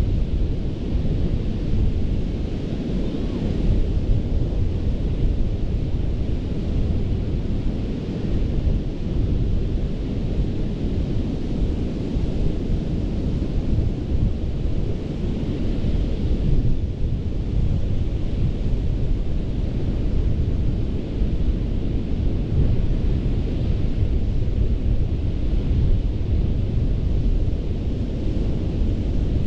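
Ocean surf breaking on a sandy beach: a steady, deep rumble of waves, with wind buffeting the microphone. The higher hiss of the wash swells a few times.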